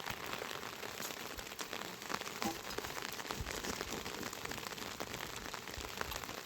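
Steady rain falling: an even hiss with many separate drop ticks.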